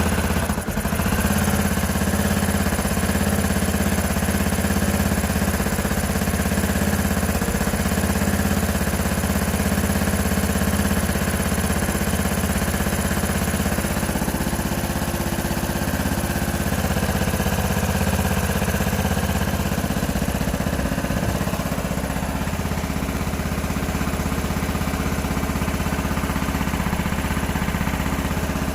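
Q2 125 Dynamic motorcycle engine idling steadily, its note shifting slightly about two-thirds of the way through.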